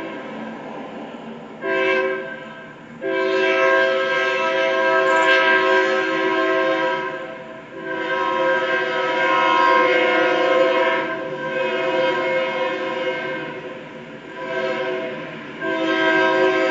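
Locomotive air horn blowing a chord in a series of long and short blasts with brief breaks between them.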